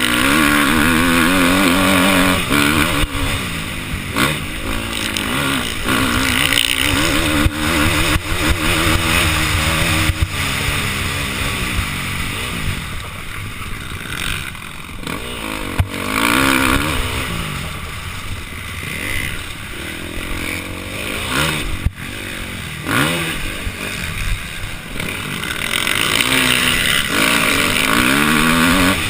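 Motocross dirt bike engine revving hard, its pitch rising and dropping again and again as the rider accelerates and shifts gears around the track, heard from a helmet-mounted camera. Sharp knocks and clatter break in here and there.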